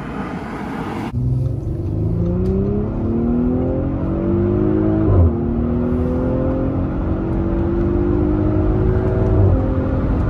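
After a second of outdoor road noise, the Audi SQ5's six-cylinder engine is heard from inside the cabin, accelerating hard with its pitch rising. It upshifts twice, about five seconds in and again near the end, the pitch dropping at each shift and then climbing again.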